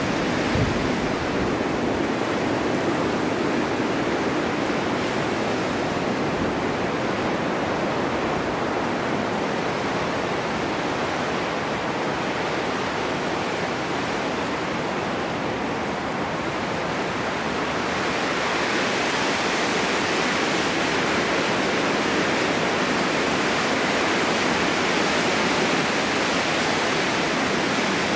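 Snowstorm wind blowing steadily, a dense rushing noise that eases somewhat in the middle and grows brighter again in the last third.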